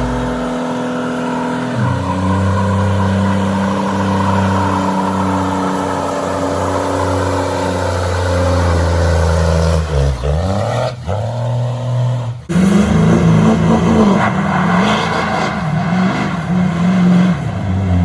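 A diesel truck engine revving hard and held at high revs. The pitch dips and climbs back twice about ten seconds in, then wavers up and down as the throttle is worked.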